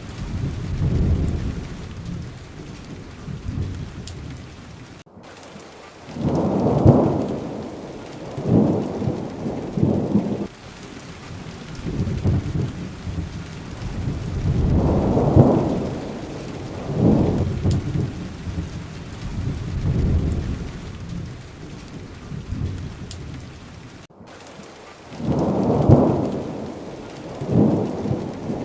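Steady rain with repeated low rolls of thunder swelling and fading every few seconds. Twice the sound cuts out for an instant.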